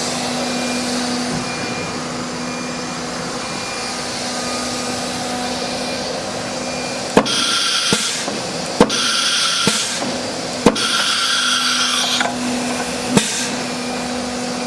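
CNC router with a disc-type automatic tool changer: a steady machine hum, then, from about seven seconds in, a run of sharp pneumatic clacks, about four strong ones, with bursts of compressed-air hiss between them. This is the spindle's tool release and clamp working through a tool change.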